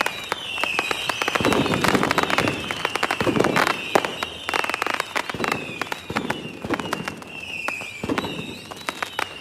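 Fireworks going off: dense crackling pops throughout, a few deeper bursts, and high whistles that fall slightly in pitch.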